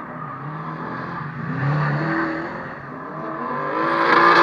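Drift car engine revving hard, its pitch rising and falling with the throttle, then climbing and growing louder near the end as the car comes closer.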